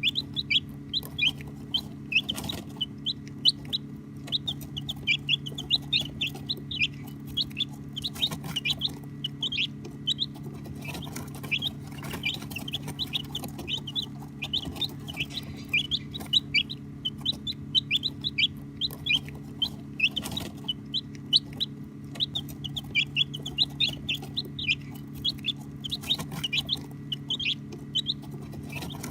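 A group of baby chicks peeping continuously: many short, high-pitched peeps, several a second and overlapping, over a steady low hum.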